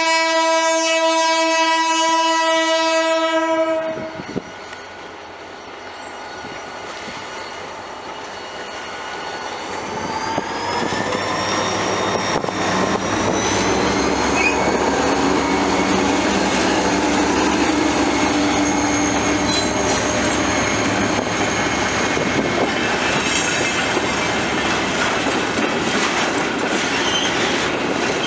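Diesel locomotive horn sounding one long, steady blast that cuts off about four seconds in. Then the EMD GT22CW diesel-electric locomotive works up with a rising whine as the train rolls by, its wheels clicking over the rail joints.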